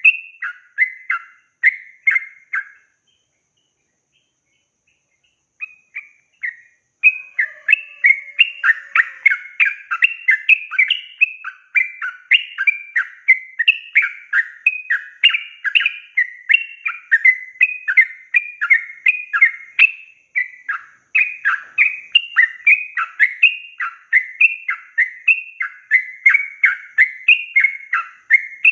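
Yellow-vented bulbul (trucukan) singing in full song: rapid, bubbly chattering phrases repeated about three times a second. It stops for about three seconds near the start, then resumes and runs on without a break.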